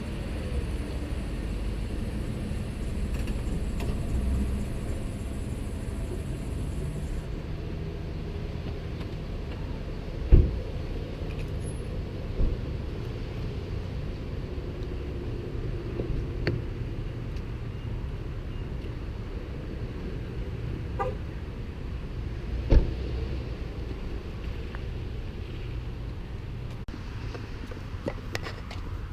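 Car running at low speed, heard from inside the cabin as a steady low rumble, with a sharp thump about ten seconds in and another a little over twenty seconds in.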